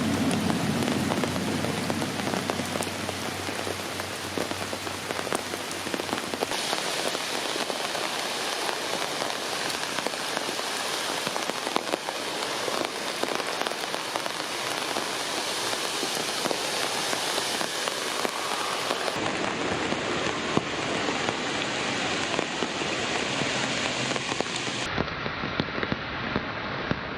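Heavy rain falling on surfaces: a steady hiss with many individual drops striking close by in sharp ticks.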